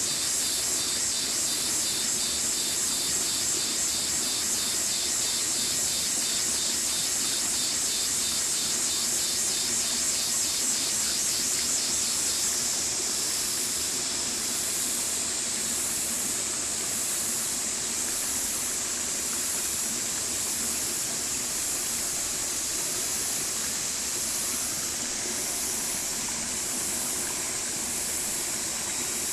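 A stream flowing in a steady, even rush of water. A fast, high-pitched pulsing sound runs over it in the first half and stops about halfway through.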